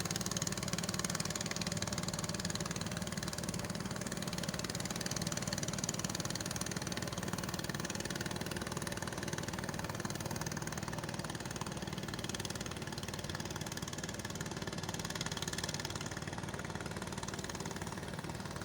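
Boat engine running steadily at a low idle, a constant hum that eases off slightly toward the end.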